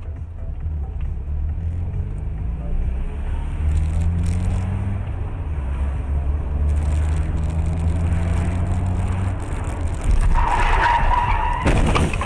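Car engine running and speeding up, its pitch rising in steps. About ten seconds in comes a louder screech that fits tyres skidding, and it stops abruptly near the end.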